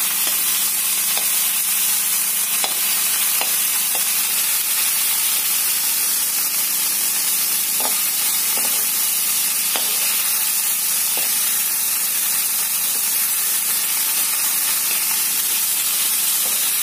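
Fish heads frying in hot oil in a kadai: a steady sizzle, with the occasional light scrape and tap of a metal spatula turning them.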